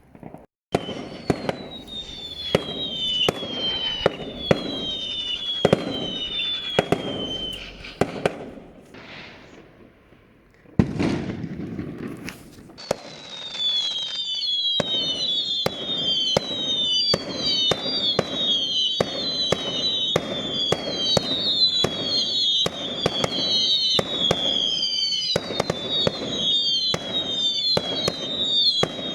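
Fireworks going off in quick succession: sharp bangs mixed with many short whistles that fall in pitch. About nine seconds in there is a brief lull, then the bangs and overlapping whistles come densely to the end.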